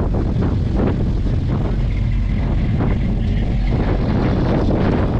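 Engines of classic American cars running as the cars drive past, a dense low mechanical noise with wind buffeting the microphone.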